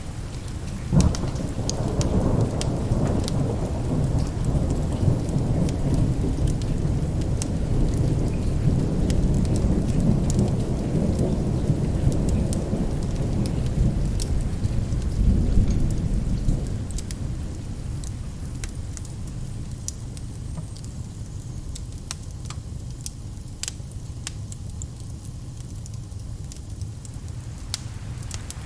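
Steady rain with a long thunder rumble that breaks suddenly about a second in, rolls on loudly and dies away after about sixteen seconds. Scattered sharp ticks of drops or crackles sound throughout.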